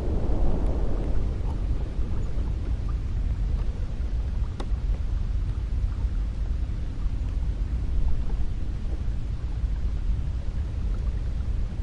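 Cold wind blowing, a deep steady rush with a stronger gust easing off about a second in.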